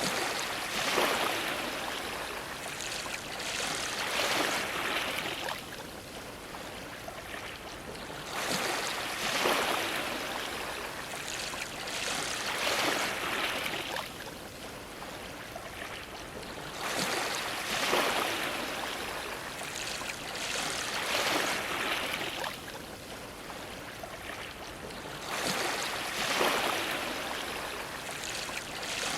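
Ocean waves splashing and sloshing against a dock, surging every three to four seconds with short quieter lulls between groups of waves.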